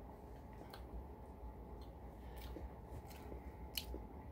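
Faint eating sounds: a few scattered soft clicks from chewing a grilled spaghetti sandwich and from a paper towel rubbed over the fingers, over a low steady hum.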